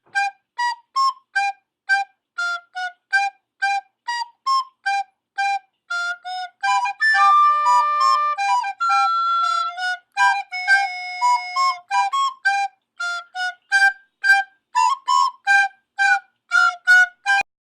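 A flute-like wind instrument plays a bouncy tune of short, detached notes, two or three a second, with a few longer held notes in the middle.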